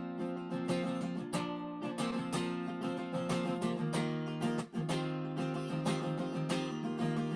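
Acoustic guitar strummed in a steady rhythm, playing the instrumental intro of a worship song.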